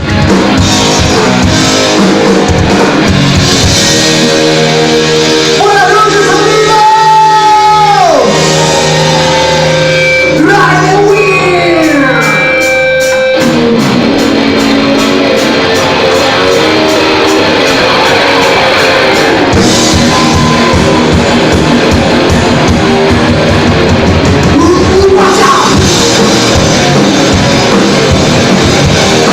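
Live rock band playing loud, with electric guitar and drums and a singer. About five seconds in come long sliding, bending notes, and a little after thirteen seconds the full band comes in hard and steady.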